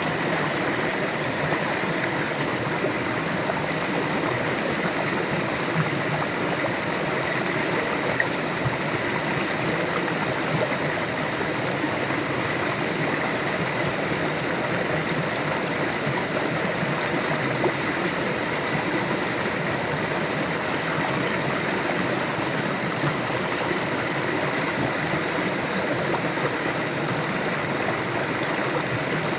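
River water flowing steadily over rocks, an even, unbroken rush with small splashes and gurgles in it.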